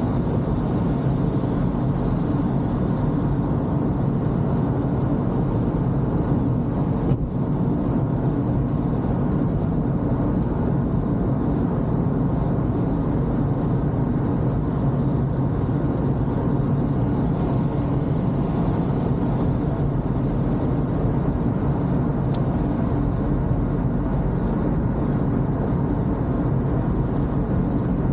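Toyota Corolla on the move, a steady low drone of engine and road noise with no clear rise or fall, broken briefly by a click about seven seconds in.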